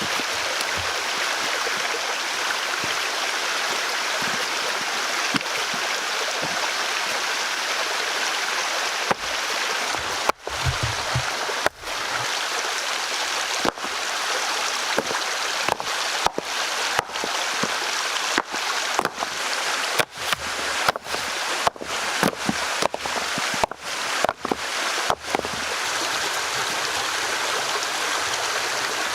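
Steady rush of a flowing stream. From about nine seconds in to about twenty-five seconds it is broken by a string of short, sharp knocks and brief dropouts.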